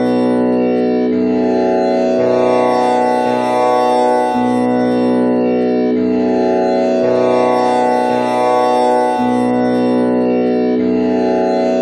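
Tanpura drone tuned to B with the komal Ni string: its strings are plucked one after another in a slow repeating cycle, each note ringing on into a continuous buzzing drone.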